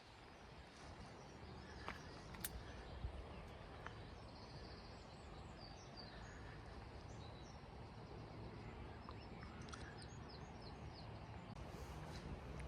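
Faint songbird calls: scattered short chirps, then near the end a quick run of falling high notes, over a low steady rumble. A few light clicks come in the first few seconds.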